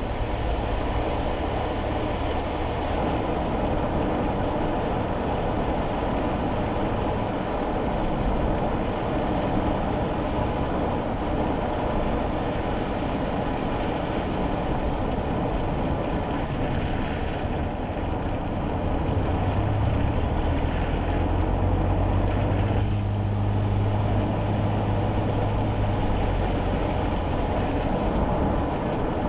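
Steady tyre and road noise on a wet road, heard inside a kei car's cabin, under the small engine's hum. In the second half a deeper low drone swells and holds for several seconds.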